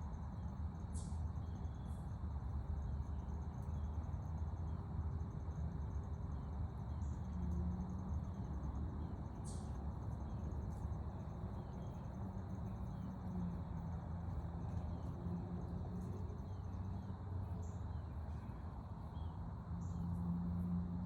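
Insects trilling in a steady, high, pulsing chorus over a low rumble, with a few brief high chirps, two of them clearer than the rest.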